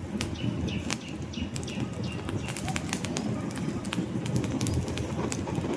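Wood fire burning in a fireplace: a steady low rumble of flames with frequent sharp crackles and pops from the logs.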